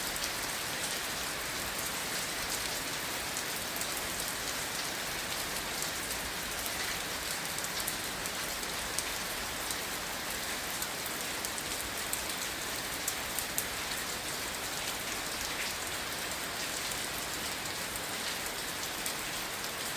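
Steady rain falling on grass, an even hiss with many small drop ticks.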